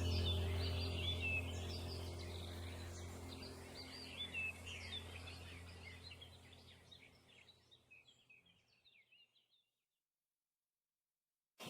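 Small birds chirping and twittering over a low steady hum, the whole sound fading out over about seven seconds. It is followed by a few seconds of silence.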